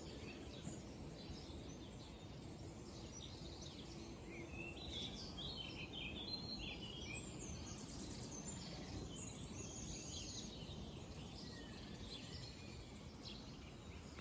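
Small birds chirping and trilling in short, scattered calls over a steady low background rumble of outdoor noise.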